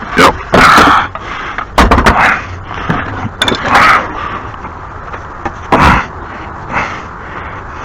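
A series of irregular knocks and clattering thumps, about six in all, some with a short scraping rush, as objects are handled and set down.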